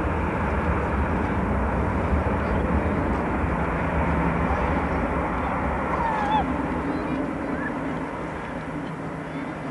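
Airliner engine noise, a broad rumble with deep low end that slowly fades over the last few seconds.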